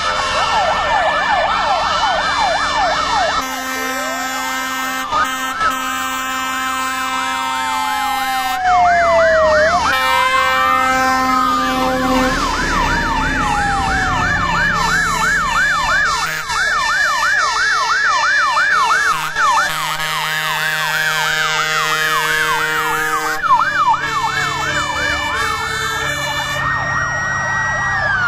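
Many emergency-vehicle sirens sounding together as a procession of fire engines passes. Fast yelping warbles and slower rising-and-falling wails overlap with steady two-tone horn notes.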